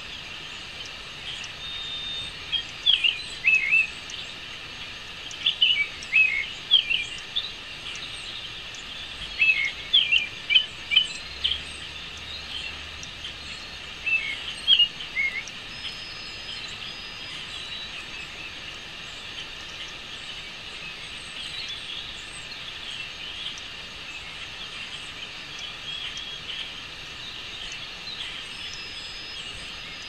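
Small birds chirping: short, high chirps in quick clusters through the first half, fainter and sparser later, over a steady background noise.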